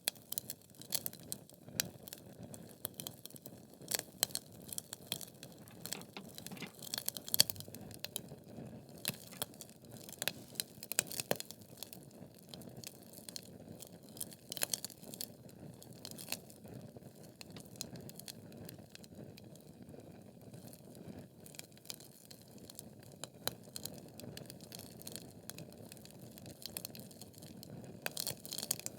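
Wood fire in a fireplace, logs burning with irregular crackles and sharp pops over a low steady rumble of flame. The pops come thickest and loudest in the first half and again near the end.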